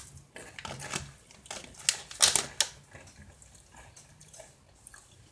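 Close-up crunching and chewing of spicy Cheez-It crackers: irregular crisp crackles, loudest a little over two seconds in, then fading to faint chewing.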